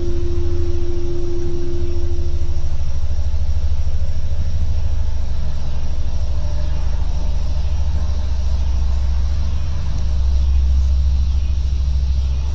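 Loud, steady deep rumble, the kind presented as a strange sound coming from the sky, with a fainter droning tone that dies away about two and a half seconds in.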